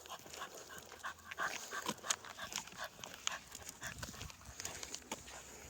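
A dog panting, mixed with many short clicks and scuffs.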